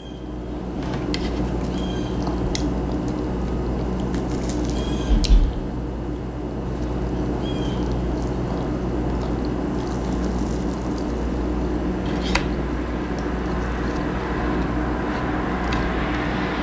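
A person eating: wet chewing and mouth sounds over a steady low hum, with a thump about five seconds in and a sharp click about twelve seconds in.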